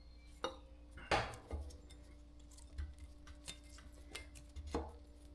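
Steel bicycle parts clinking and tapping as a crank arm is handled and fitted onto the bottom bracket spindle: a handful of separate sharp metallic clicks, the loudest just over a second in, over a faint steady hum.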